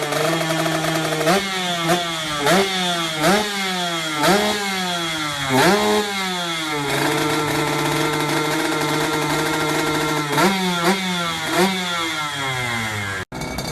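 Yamaha RX-King's two-stroke single-cylinder engine with a racing exhaust, idling and revved in short throttle blips. Each blip rises sharply in pitch and falls back to idle: about six in quick succession, a few seconds of steady idle, then three more near the end. The sound drops out for an instant just before the end.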